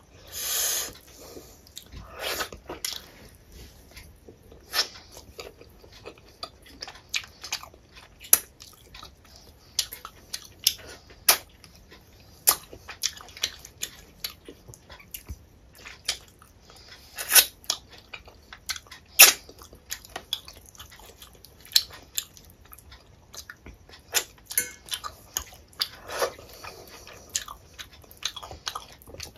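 Close-miked chewing of rice and curry eaten by hand, with many sharp, irregular wet mouth clicks and smacks. A longer wet sound comes about a second in and again near the end.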